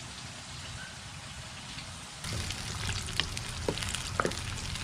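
Food sizzling as it fries in a pan: a steady hiss that gets suddenly louder about two seconds in, with a few sharp clicks and knocks after that.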